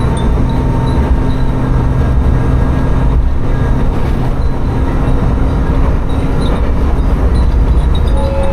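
Tsugaru Railway diesel railcar running along the line, its engine droning steadily over the rolling wheel noise. Wind chimes hung in the car tinkle faintly now and then.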